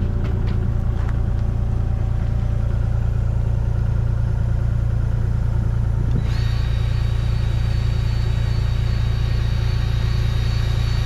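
Excavator engine running steadily with a deep, even hum. About six seconds in, a steady high-pitched whine joins it.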